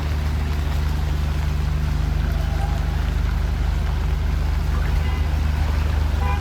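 An engine running steadily with a low, unchanging hum, under a wash of noise.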